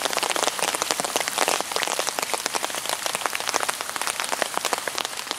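Rain falling, heard as a dense, steady stream of small drop impacts.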